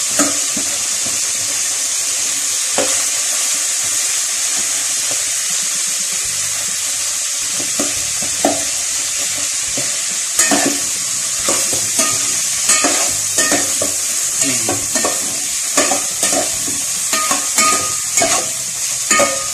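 Chicken pieces sizzling in a metal pot as they are sautéed, with a steady hiss. A metal spoon stirs them, clicking and scraping against the pot, often and irregularly from about eight seconds in.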